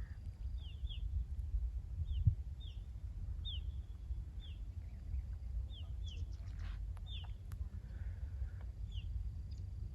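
Small birds chirping: many short, quick downward-sliding chirps repeated irregularly, over a steady low rumble of wind on the microphone.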